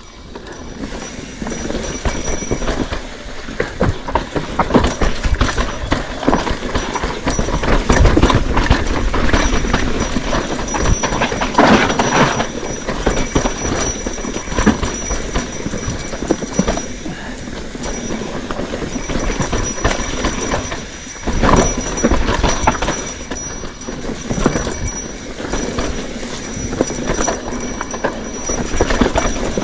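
Bike ridden over a rough trail, rattling and clattering continuously with irregular knocks.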